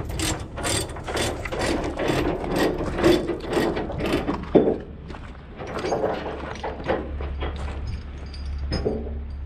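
Ratchet chain binder being cranked loose, a fast run of clicks, with a sharp metal clank about halfway through as the tension comes off.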